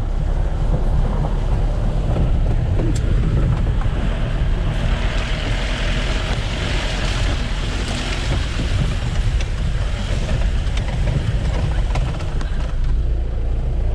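A jeep driving along a rough unpaved track: a steady low rumble of engine and road noise, with a louder hiss for a few seconds in the middle.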